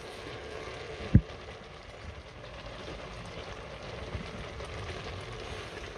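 Tomatoes frying in groundnut oil in a stainless steel pot, a steady sizzle, with a single sharp thump about a second in.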